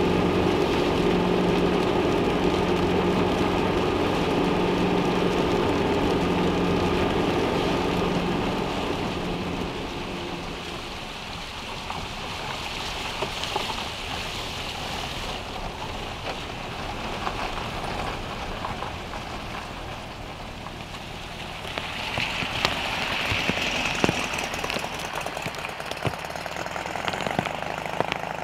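A car engine idling steadily under heavy rain fades out about ten seconds in. After that, rain falls steadily on the car and the wet ground, with individual heavy drops ticking on the car.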